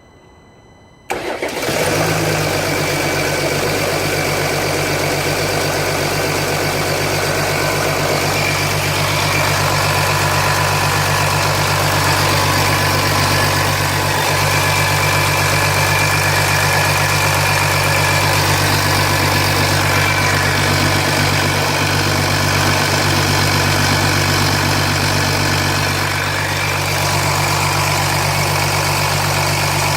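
Jeep Grand Cherokee 3.0 CRD's Mercedes OM642 V6 turbo-diesel cold-started about a second in, catching at once and then idling steadily. It idles with a rattle that the owner thinks sounds like it could be the timing chain, and the oil pressure light stays on at idle.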